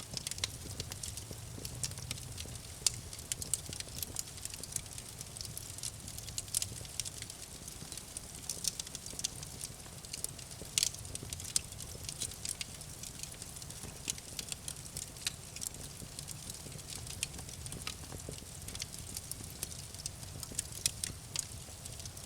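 Campfire burning with continuous irregular crackling and popping over a low, steady rumble.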